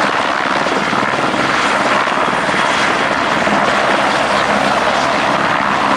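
Helicopter in flight, a loud steady drone of turbine and rotor blades.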